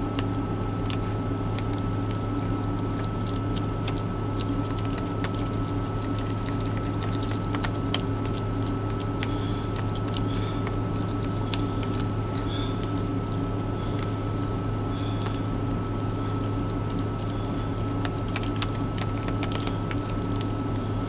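Tuna salad with mayonnaise being stirred and mixed in a container: irregular small clicks, scrapes and wet squishing, over a steady low hum.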